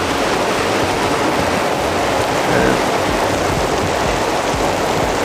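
Heavy rain mixed with small hail pelting down, a steady loud hiss.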